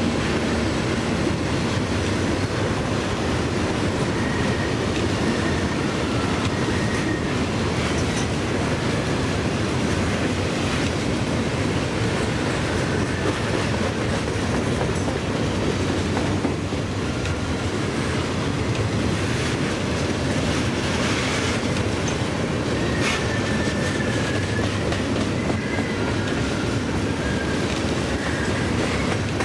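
Loaded CSX welded rail train rolling past, its wheels clattering steadily on the track. Short, high wheel squeals come through a few seconds in and again near the end.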